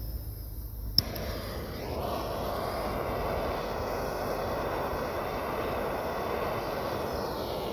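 A propane torch lit with a sharp click about a second in, then a steady, even rush of flame as it burns an axe handle's wood.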